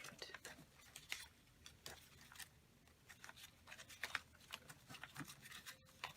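Faint, irregular rustling and light ticks of paper craft pieces being handled and sorted.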